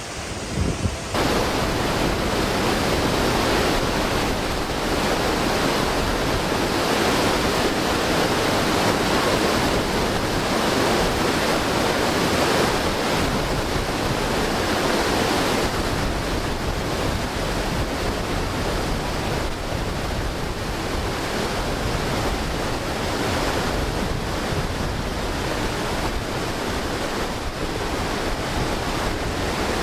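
Rushing water from Bridalveil Fall's creek, swollen with snowmelt, making a steady dense rush that steps up about a second in. Wind buffets the microphone.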